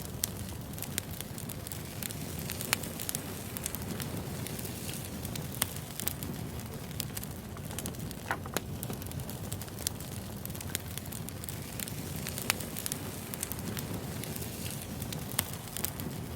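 Wood fire burning: a steady low rumble of flames with sharp crackles and pops from the burning logs every second or two, at irregular intervals.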